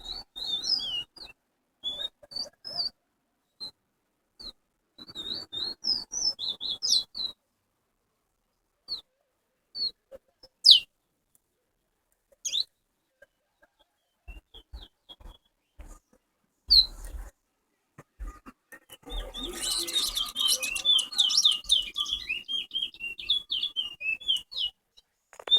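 Towa-towa (chestnut-bellied seed finch) singing in short chirped phrases, with a single sharp falling whistle about ten seconds in. Near the end it breaks into a long, fast run of warbled notes.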